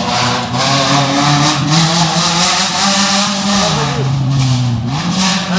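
Off-road race car engine running hard, its pitch dropping for about a second after the middle and then climbing again.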